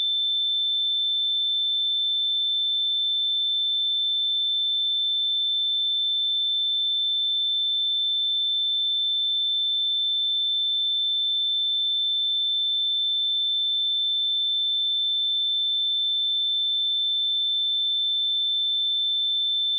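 A steady, unbroken 3542 Hz sine-wave test tone: a single high-pitched pure tone held at a constant level.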